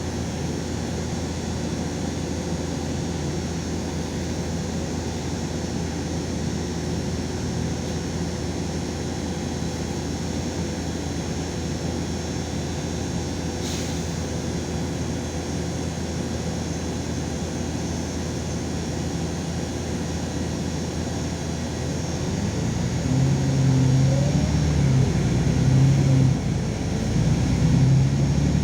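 LiAZ 5292.22 city bus riding, heard from inside: a steady low engine and road drone. About 22 seconds in, the engine note grows louder and climbs in steps as the bus accelerates.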